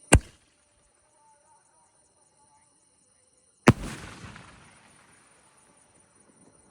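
Two loud bangs from a Marvaleous 24 3.5-inch repeater fireworks cake, about three and a half seconds apart; the second dies away over about a second.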